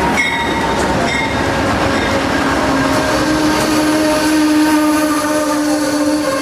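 Amtrak Empire Builder passenger train pulling into the station, its locomotive bell ringing about once a second at first over the rumble of the train. A steady held tone joins from about three seconds in.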